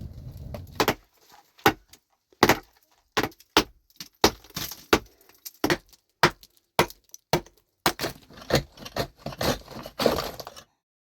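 An irregular run of about twenty sharp knocks and clinks of hard stone being struck, stopping abruptly shortly before the end.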